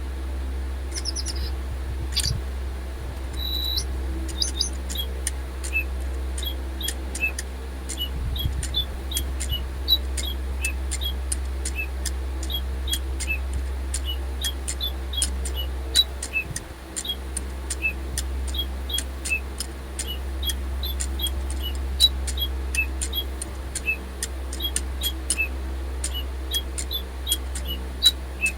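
Silverlit DigiBird robot toy birds chirping electronically: a quick run of short, falling chirps, several a second, each with a sharp click. The birds are running on nearly flat batteries.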